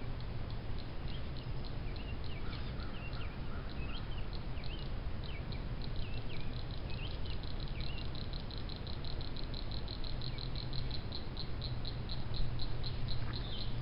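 Outdoor ambience by the water: a bird repeats short chirps through the first half, while a high, even ticking of about five a second, typical of an insect, goes on throughout and grows plainer in the second half. A steady low rumble sits underneath.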